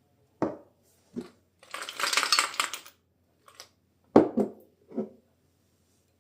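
Kitchen utensils and dishes being handled: several sharp knocks and clinks, with about a second of scraping, rustling noise in the middle.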